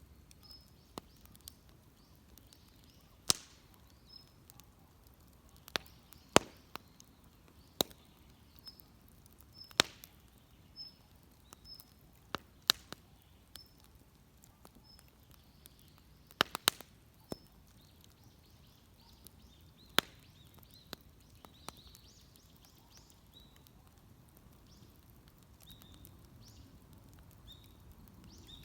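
Wood fire crackling, with irregular sharp pops of burning wood, some much louder than others, over a quiet background.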